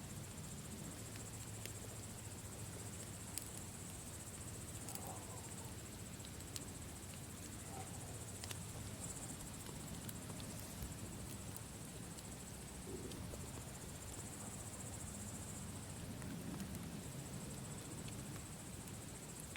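Campfire crackling, with sparse sharp pops a few seconds apart, over a steady high chirring of crickets.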